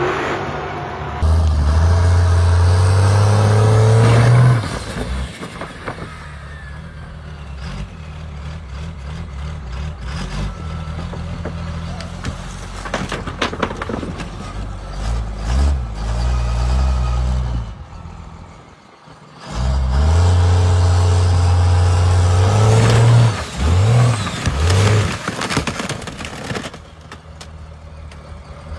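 Monster truck engine revving hard twice in long rising pulls, each lasting a few seconds, with lower engine running and a few sharp knocks in between.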